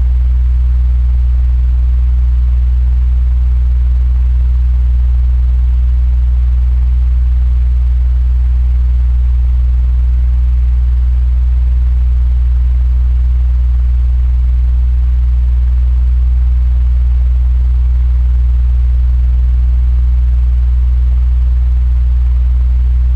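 Electric fan running steadily: a constant low hum with a faint airy hiss over it.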